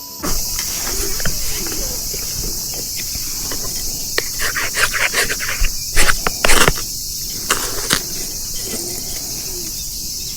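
Metal match (ferrocerium rod) being struck to throw sparks onto hemp twine tinder: a run of short rasping scrapes from about four seconds in, the two loudest a little past the middle. Under it, a steady high chirring of insects.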